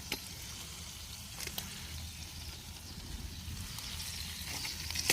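Cooking on a camping stove: a steady sizzling hiss with a few light clicks, growing louder near the end.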